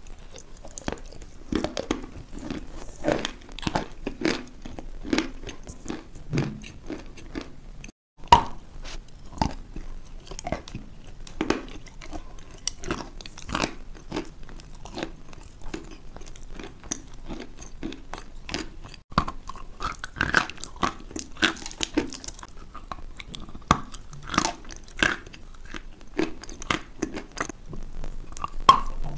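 A person biting into and chewing a crunchy food, bite after bite of sharp, irregular crunches.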